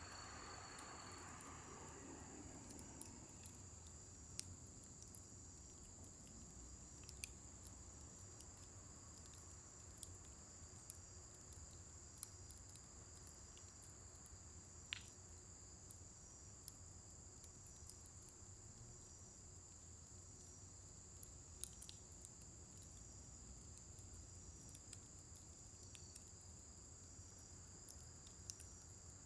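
Scattered sharp crackles and pops from a scrap-wood fire burning down in a fire pit, over a steady high-pitched insect trill.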